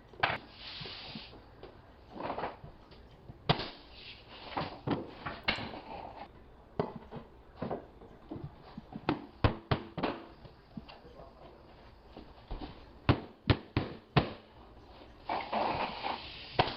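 Irregular sharp knocks and clacks from laying and fastening 3/4-inch hardwood flooring boards: boards being set, tapped and nailed down near a wall.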